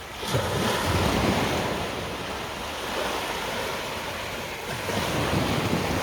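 Small sea waves washing onto a sandy beach, with wind buffeting the microphone; the sound swells twice, about half a second in and again near the end.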